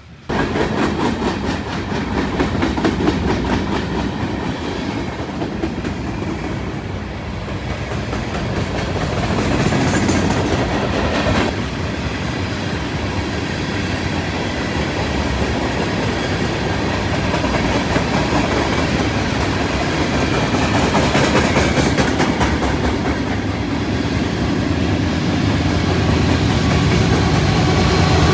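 A train rolling past, loud and steady, its wheels clacking over the rail joints. The sound cuts in abruptly and grows somewhat louder toward the end.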